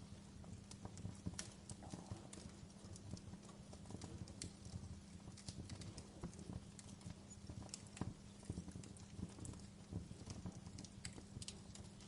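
Wood fire burning in a fireplace, crackling: irregular sharp pops and snaps over a low steady rumble of the flames.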